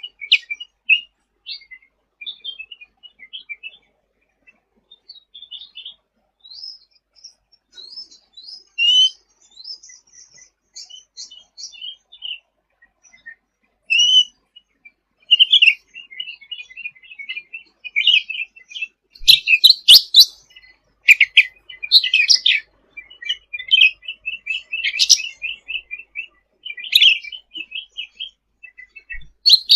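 Cucak ranting (black-headed bulbul) singing in a rapid, continuous chattering twitter of short high chirps, with louder sharp notes bunched about two-thirds of the way through.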